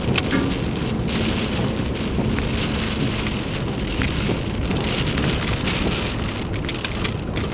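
Severe thunderstorm's wind gusts buffeting the microphone: a loud, steady rushing noise with a heavy low rumble and scattered sharp clicks.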